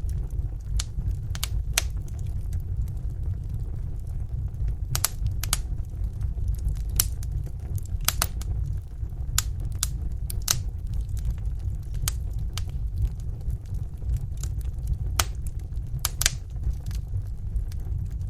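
Wood fire in a fireplace crackling: sharp, irregular pops and snaps, about one or two a second, over a steady low rumble.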